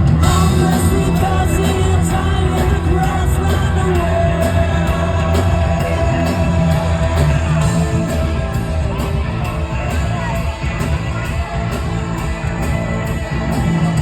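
Live rock band playing amplified music with singing, heavy bass and a steady cymbal beat; a long held note sounds through the middle.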